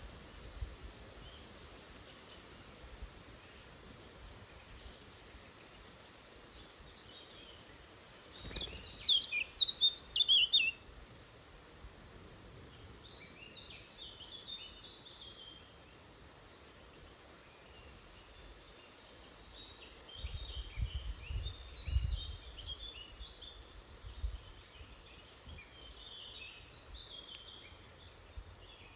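Small woodland birds calling and chirping over a steady outdoor background hiss, with a loud run of rapid high notes about nine seconds in and scattered shorter calls later. A few low rumbles come in around two-thirds of the way through.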